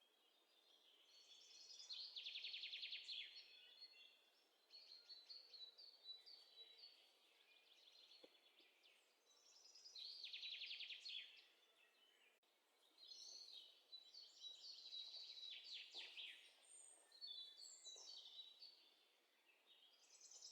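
Faint birdsong: high chirps and rapid trills coming in bursts every few seconds.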